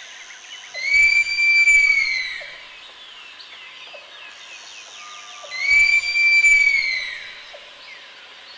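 An animal call given twice, each a loud, high, clear cry that rises slightly and falls away over about a second and a half, the second coming about five seconds after the first. Faint bird chirping runs underneath.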